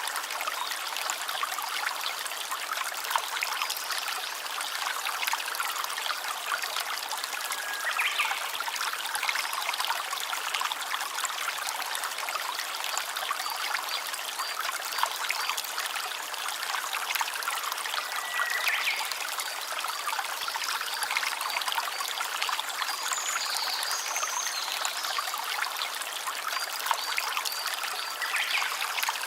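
Small stream trickling and babbling steadily over stones, with a few faint short whistles over it.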